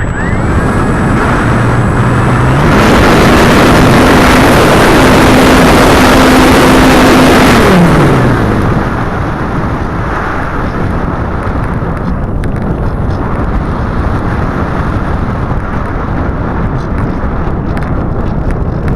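Strong wind buffeting the microphone, with the hum of the ParkZone Radian's electric motor rising in pitch about three seconds in, holding, and dropping back about eight seconds in. The wind noise is loudest while the motor is up.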